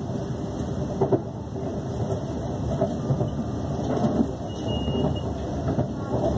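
Inside the carriage of a Class 350 Siemens Desiro electric multiple unit running at speed: a steady rumble of wheels on the rails, with a sharp knock about a second in and another around four seconds.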